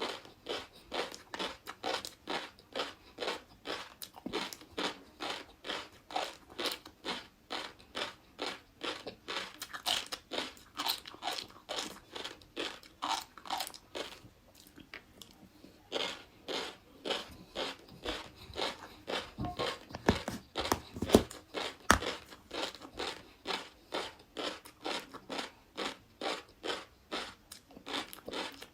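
Close-miked chewing of crunchy flying fish roe: a steady run of crisp crunches at about three a second, with a short break around the middle and a few heavier bites soon after.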